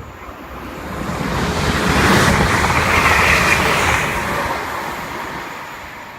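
A train passing through the station: a rushing noise that swells over about two seconds, peaks, and fades away.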